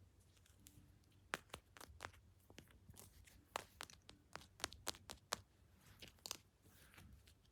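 Handling noise: a faint run of quick, sharp clicks and taps, starting about a second in and lasting about five seconds.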